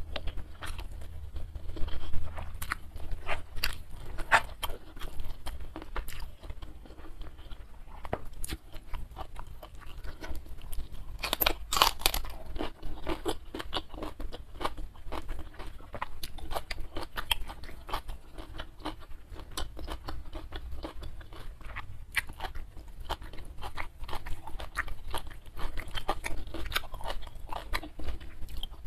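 Close-miked chewing and crunching of a mouthful of rice with stir-fried prawns and leunca berries, with wet mouth clicks and smacks; one louder crunch near the middle.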